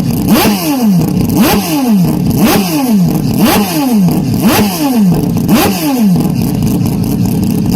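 Historic Group C race car engine revved with repeated throttle blips, about one a second: each time the revs shoot up quickly, then sink back.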